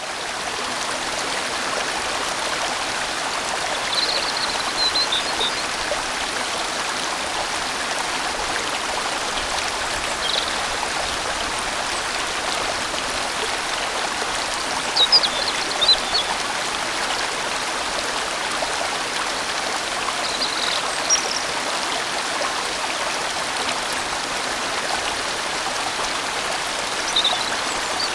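A large, winding valley stream flowing, a steady rush of water. A few brief high chirps stand out over it every few seconds.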